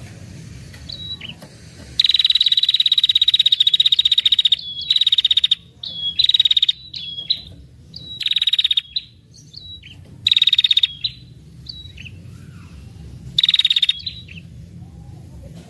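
Female red-headed tailorbird giving its rapid rattling trill: one long, fast trill about two seconds in, then five shorter bursts of the same trill.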